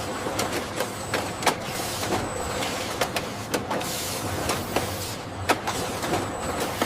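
Factory machinery running with a steady mechanical hum, overlaid by irregular sharp clicks and clanks.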